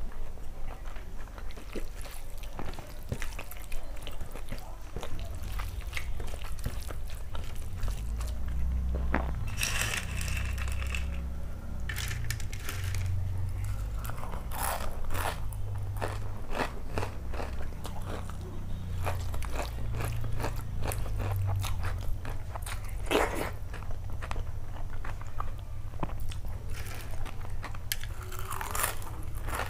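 Close-miked chewing and crunching of crisp fried potato sticks (aloo bhaja) eaten with rice by hand, with many sharp crunches.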